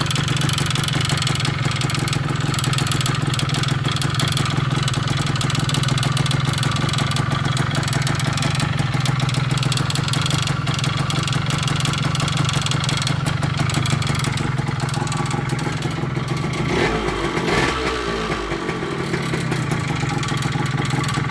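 1998 Kawasaki KE100's two-stroke single-cylinder engine running at idle after a cold start, with a rattling, ticking noise from the cylinder that the owner cannot identify. The engine speed rises and falls briefly about 17 seconds in.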